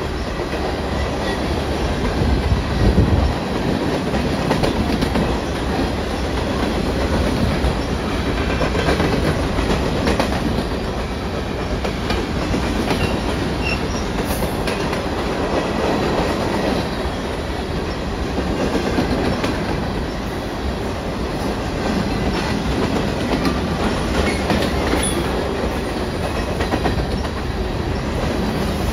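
CPKC freight train rolling past steadily at close range, the continuous rumble and clatter of its cars on the rails, with a low thump about three seconds in.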